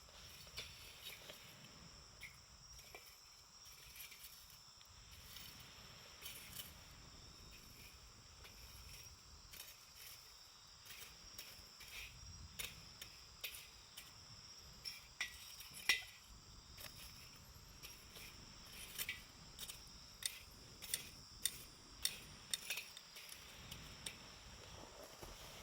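Wood campfire crackling: irregular sharp pops and snaps, coming faster and louder in the second half, the loudest pop a little past the middle. A steady high insect trill runs underneath.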